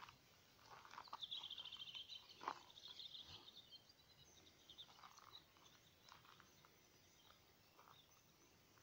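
Faint outdoor ambience with small birds calling, including a fast high trill about a second in. A few soft thumps are scattered through it.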